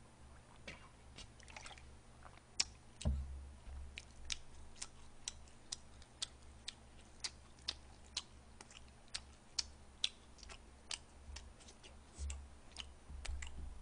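Close-miked chewing of food, with sharp mouth clicks coming evenly about twice a second. A single heavier thump about three seconds in fits a plastic drink bottle being set down on the table.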